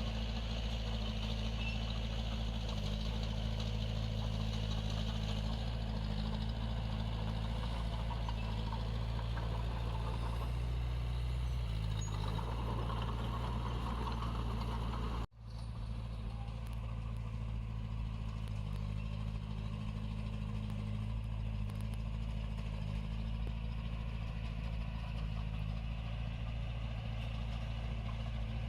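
Heavy-equipment diesel engine running steadily with a low, even drone. It cuts out abruptly for a moment about halfway through, then carries on.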